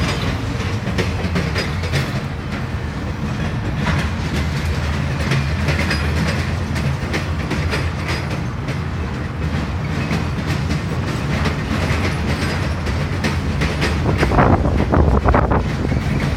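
BNSF freight train of tank cars and flatcars rolling past: a steady low rumble with wheels clacking over the rail joints, and a louder stretch of clatter about fourteen seconds in.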